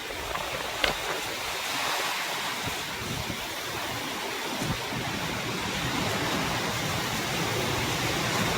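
Heavy rain in strong wind: a steady, dense rushing with wind buffeting the microphone, and one sharp tap about a second in.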